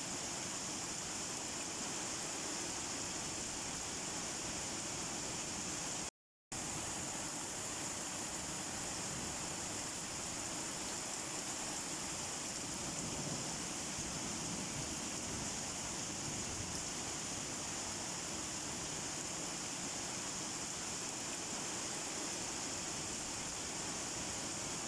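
Steady rain falling, an even hiss, that cuts out to silence for a split second about six seconds in.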